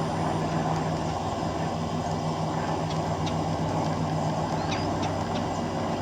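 A few short, high bird chirps scattered through the second half, over a steady low hum and rumble.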